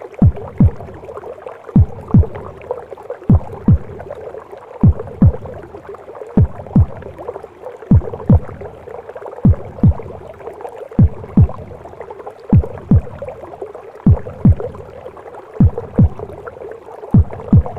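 Heartbeat sound: a paired low lub-dub thump repeating evenly about every one and a half seconds, over a steady whooshing womb-like noise.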